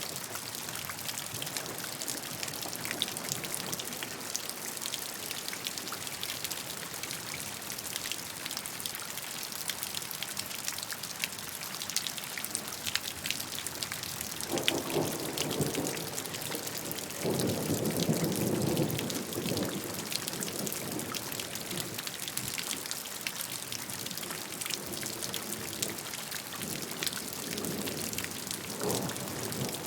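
Steady rain falling, with the fine ticking of individual drops over an even hiss. About halfway through, two louder, deeper swells of sound rise and fade, and a weaker one comes near the end.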